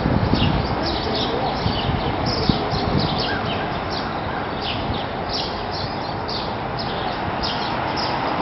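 Wild birds chirping over and over, short falling chirps a few times a second, over a steady background rush of noise.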